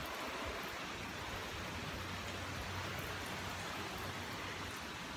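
Heavy hurricane rain pouring steadily, an even, unbroken hiss.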